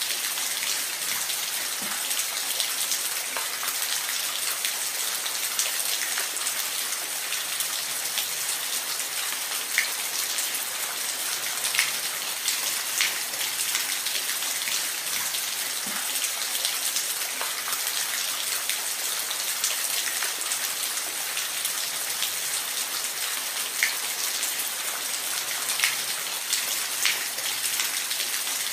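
Steady rain falling, an even hiss with many individual drops pattering and ticking sharply on a hard surface.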